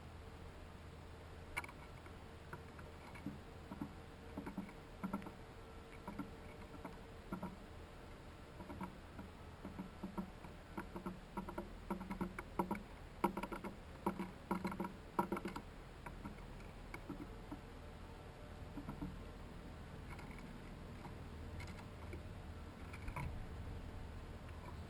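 Irregular light taps and knocks of birds and chipmunks feeding at a hanging feeder. They come in loose clusters, busiest midway, over a faint steady low hum.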